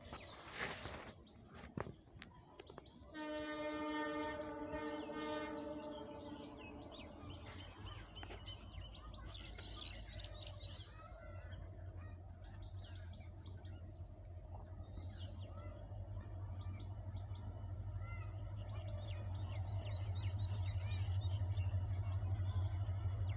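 A distant train horn sounds once, held for about three seconds, a few seconds in. Then the low rumble of the approaching train builds and grows steadily louder, with birds chirping.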